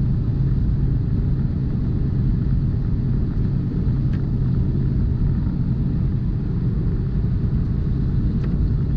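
Semi truck's diesel engine and road noise heard from inside the cab: a steady low rumble.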